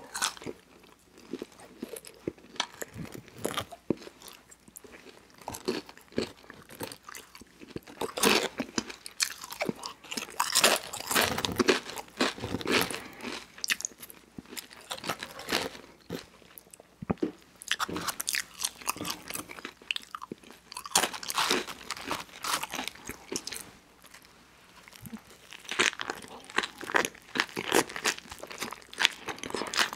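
Close-miked eating sounds: a person biting and chewing crunchy fast food, with sharp crunches coming in bursts between quieter stretches of chewing. Near the end comes a bite into a toasted sandwich.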